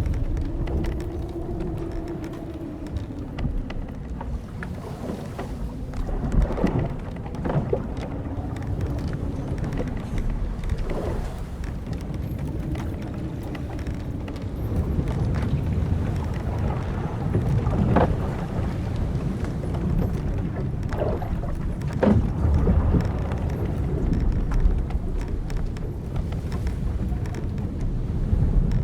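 Old wooden sailing ship's timbers creaking over a steady low rush of wind and sea. There is one long wavering groan at the start and another about halfway, with scattered short creaks and knocks in between.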